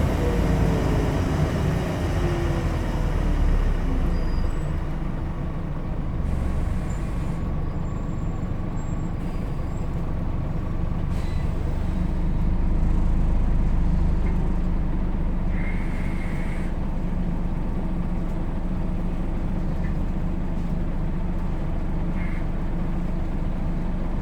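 Scania N94UD Omnidekka double-decker bus running, heard from inside the cabin: the engine's pitch falls at the start, then it settles into a steady low drone. There is a brief high tone about two-thirds of the way through.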